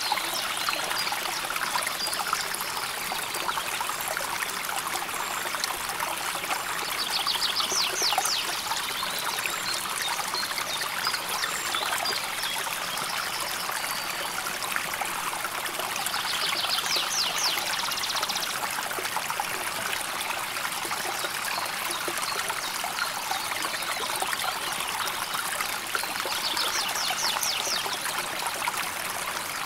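River water flowing steadily over a shallow bed, a constant trickling babble. Three times, about every nine seconds, a short, rapid high trill sounds over it.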